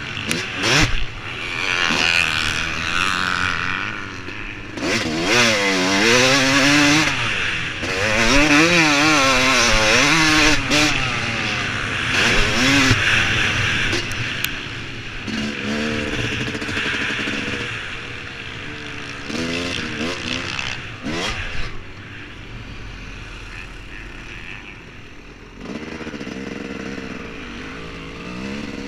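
Two-stroke engine of a Yamaha YZ250 fitted with a 300cc big bore kit, ridden hard on a motocross track. The engine note rises and falls repeatedly as the throttle is worked, eases off for a few seconds near the end, then picks up again.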